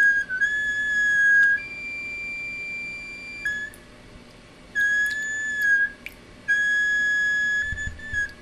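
A leaking water faucet whistling when opened only a little: a steady high-pitched whistle that jumps to a higher note, breaks off twice, and starts again.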